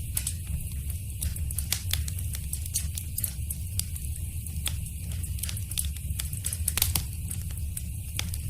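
Wood fire burning in a fireplace, crackling with irregular sharp pops over a steady low rumble of the flames, with one louder pop about seven seconds in.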